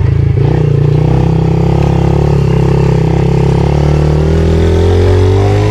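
Pit bike engine running steadily, its pitch rising a little near the end as the throttle opens.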